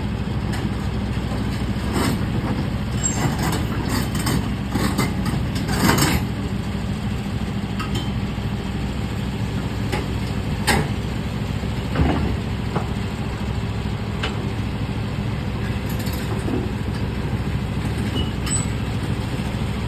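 Excavator's diesel engine running steadily, with a few sharp metallic knocks as the machine works.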